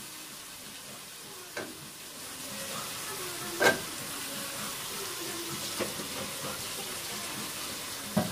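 Food sizzling in a pan on the stove, a steady hiss that grows a little about two seconds in, with four sharp clinks of metal utensils against steel pots. The loudest clink comes about three and a half seconds in.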